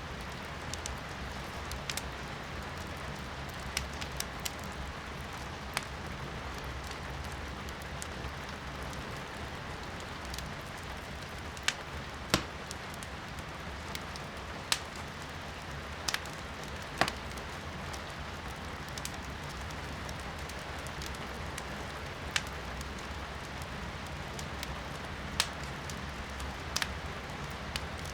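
Firewood burning in a fireplace, crackling with scattered sharp pops, the loudest near the middle, over a steady hiss of rain heard from inside a room.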